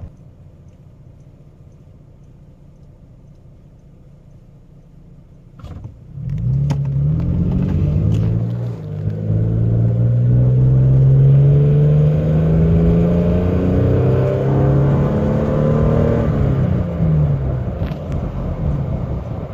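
Toyota Tacoma's 4.0L V6 with a Gibson cat-back exhaust, heard from inside the cab. It idles low and steady, then accelerates away from about six seconds in. The engine note rises, drops once as it shifts up, climbs again, and falls away as the throttle eases near the end.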